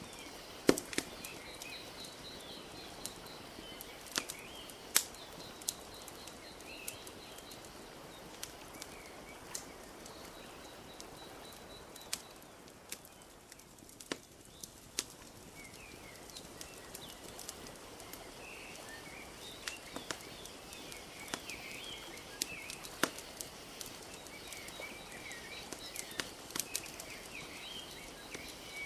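Wood fire crackling, with irregular sharp pops, over a steady wash of lake water lapping. Small birds chirp throughout, fading briefly about halfway through.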